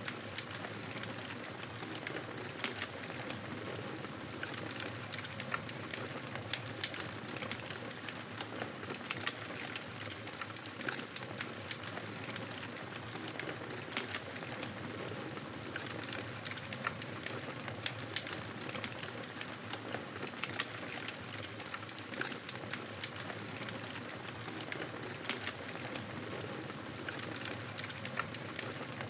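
Wood fire in a fireplace crackling steadily: many small sharp pops and snaps over a constant low hiss.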